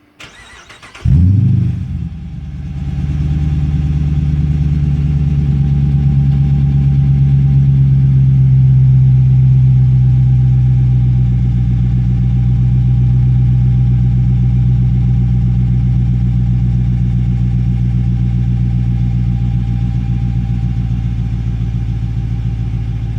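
2016 Dodge Charger R/T's 5.7-litre Hemi V8 starting through Borla Pro XS mufflers, an X-pipe and no resonators. Brief cranking, a loud bark as it catches about a second in, then a steady idle.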